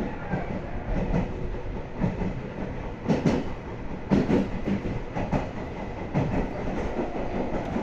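Train running on rails: a steady low rumble, with wheels clacking over rail joints roughly once a second, some clacks coming in quick pairs.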